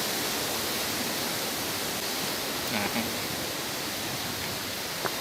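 Steady rushing of mountain stream water running over rocks, with a brief faint sound about three seconds in and a light click near the end.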